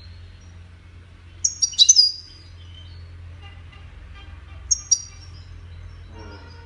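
European goldfinch song: two bursts of high, quick twittering chirps, one about a second and a half in and another near five seconds, with fainter notes between, over a low steady hum.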